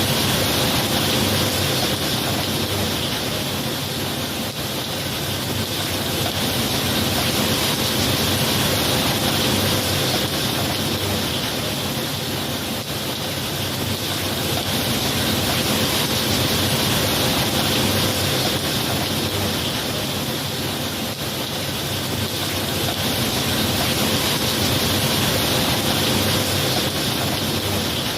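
Heavy rain falling steadily, a dense even hiss that swells and eases slowly every several seconds.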